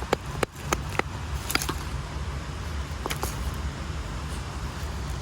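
Several sharp clicks of stones knocking together as they are handled, spread over the first three seconds or so, over a steady low rumble.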